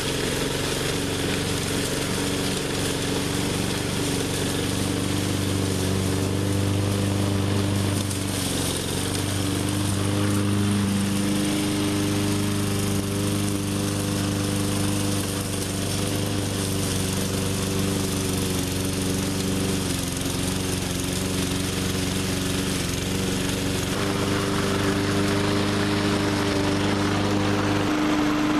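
20-inch walk-behind push mower's small engine running steadily under load in heavy brush, its pitch shifting a few times as the load changes.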